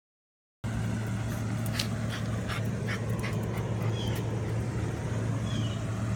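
Puppies stirring, with a few quick soft clicks and two brief high squeaks, over a steady low hum. The sound cuts in suddenly just over half a second in.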